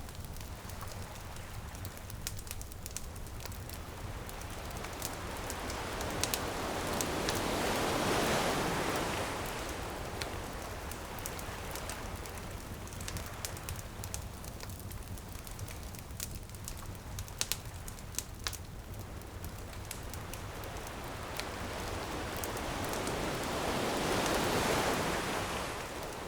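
Ocean waves washing onto a beach in two slow swells, with a wood bonfire crackling throughout in sharp little pops.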